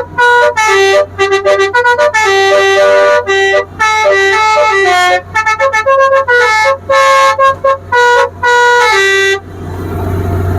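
A boat's 'telolet basuri' musical horn playing a quick tune of short, bright toots at changing pitches. The horn stops near the end, leaving a low rumble.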